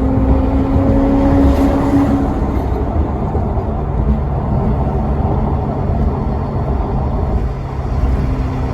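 Maserati Quattroporte Sport GT's V8 engine running under light load. Its pitch climbs slowly for the first two seconds or so, then drops away to a lower, steady drone.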